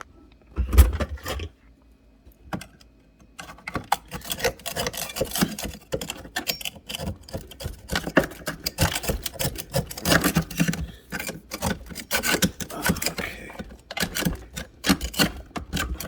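Ice being scraped and chipped out of a fridge's ice maker compartment: a heavy knock about a second in, then a long run of irregular scraping, clinking and rattling of ice and plastic.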